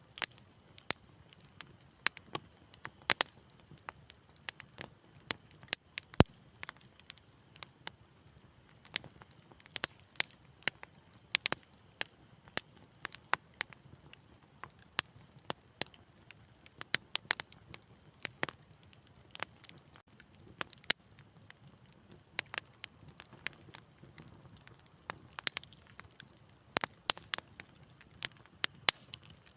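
Wood fire crackling in a fireplace: irregular sharp pops and snaps, several a second at times, over a faint low hiss of the burning.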